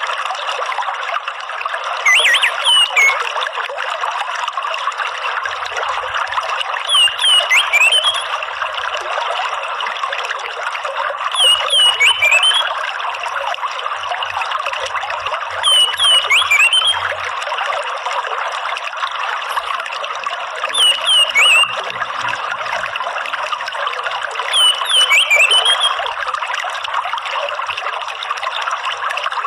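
Steady trickling water with the short, chattering 'ngeriwik' call of an orange-headed thrush (anis merah) repeating six times, evenly about every four and a half seconds, as a looped bird-therapy track.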